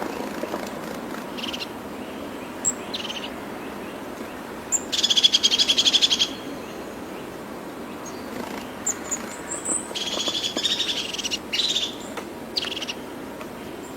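Small birds calling and singing, with two loud rapid trills, one about five seconds in and another about ten seconds in, and scattered short high chirps over a steady background hiss.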